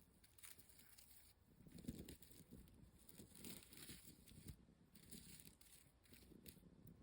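Faint crinkling rustles of the tinsel on a wand-type cat toy being moved and played with, with a few soft knocks.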